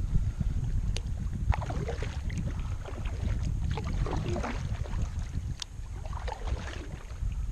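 Kayak paddling on open water: irregular small splashes and drips from the paddle, over a steady low rumble of wind buffeting the microphone.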